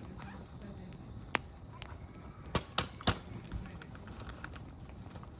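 Open wood campfire crackling: firewood snapping in sharp, irregular pops, with the three loudest coming in quick succession about two and a half to three seconds in.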